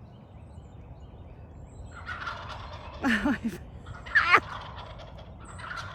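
Wild turkey gobbling twice, each a quick, falling, warbling rattle.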